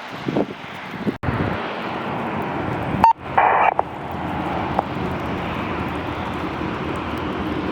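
Fire truck's diesel engine running steadily with tyre and road noise, broken by a short burst of noise about three seconds in.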